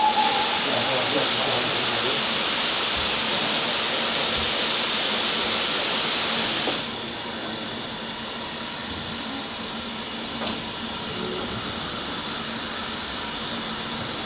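Steam locomotive releasing steam in a loud, steady hiss that cuts off suddenly about seven seconds in, leaving a quieter background with a faint steady hum.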